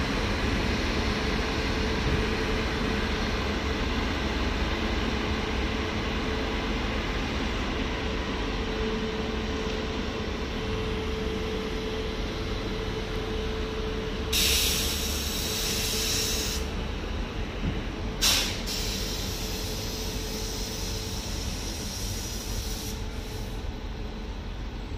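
Indian Railways WAP-7 electric locomotive and its coaches moving past, a steady rumble with a low hum. About fourteen seconds in comes a hiss of air lasting about two seconds, then a single sharp clack a few seconds later and a brief, fainter hiss near the end.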